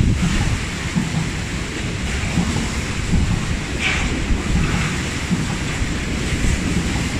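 Freight wagons loaded with rails rolling through a station: a loud, steady rumble of wheels on track, with a brief sharper noise about four seconds in.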